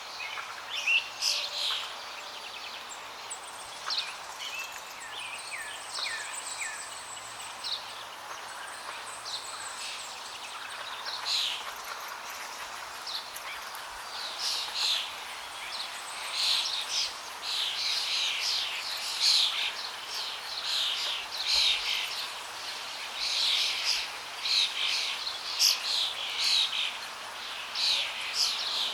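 Songbirds chirping and calling over a steady rush of flowing water; the chirping grows busier about halfway through.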